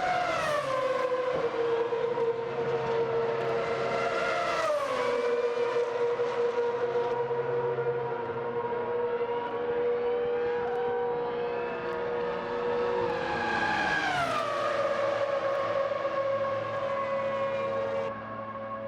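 Ferrari F2004 Formula 1 car's V10 engine running at high, steady revs, its pitch dropping sharply three times: near the start, about five seconds in, and about fourteen seconds in.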